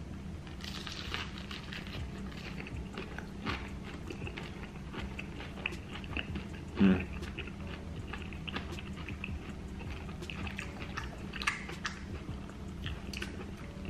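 Close-up biting and chewing of a fried jalapeño popper egg roll, wet mouth sounds with small clicks and crunches. There is one brief louder sound about seven seconds in.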